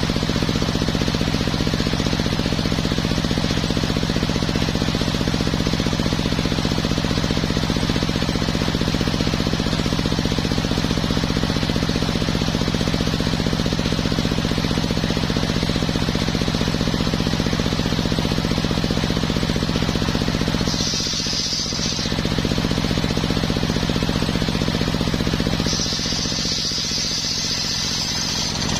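Homemade circular sawmill running steadily as it saws coconut-palm wood. A high steady whine joins briefly about 21 seconds in and again from about 26 seconds, as the low running sound dips slightly.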